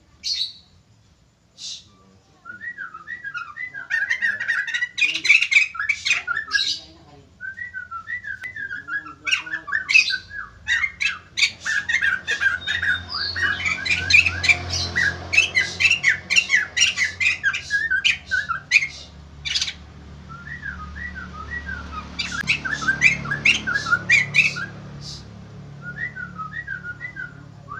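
White-crested laughingthrush (poksay jambul) calling in full voice: long, fast runs of short chattering notes with sharp, high squawks among them. It starts a couple of seconds in, pauses briefly about a quarter of the way through, is densest through the middle, and thins out near the end.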